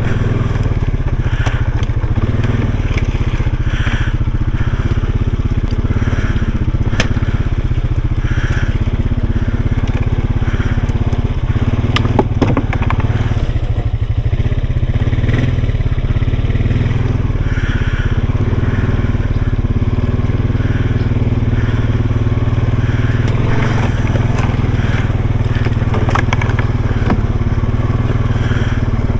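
Off-road vehicle's engine running steadily at low speed, with the tyres crunching and crackling over rough ground.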